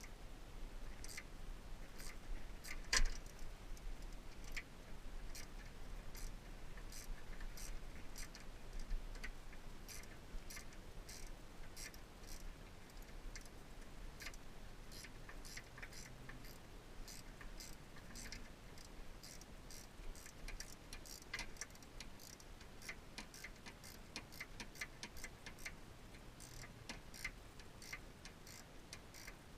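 Light, irregular clicks and taps from hand tools, with one sharper knock about three seconds in.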